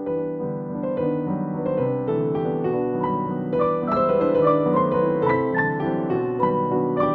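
Background piano music, gentle and steady, with a melody of short notes over a lower accompaniment.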